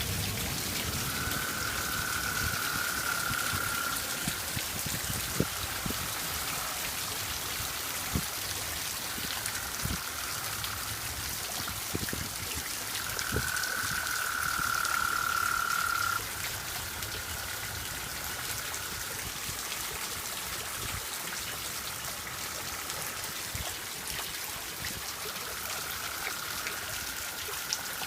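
Toads trilling in the rain: several long, steady, even-pitched trills of a few seconds each, one after another and overlapping, over the steady hiss of heavy rain with scattered drips.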